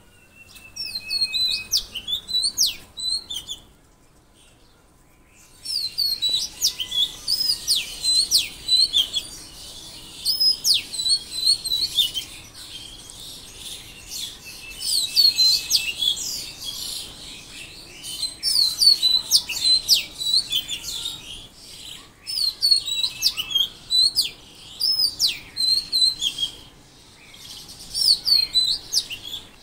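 Songbird singing in repeated bursts of quick, high chirping phrases a few seconds long, with short pauses between them; the longest pause comes a few seconds in.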